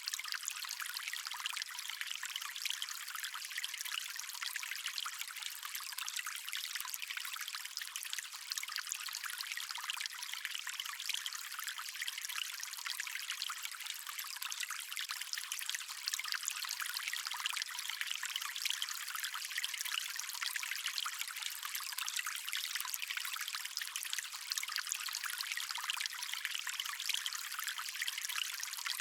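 Stream water flowing steadily, an even, hissing rush with almost no low rumble.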